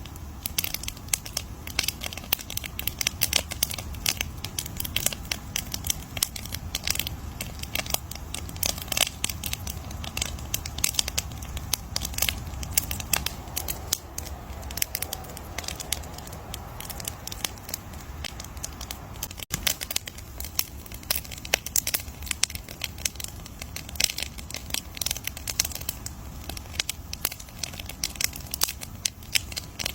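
Campfire crackling: a dense, irregular run of sharp pops and snaps from the burning wood over a low, steady rumble.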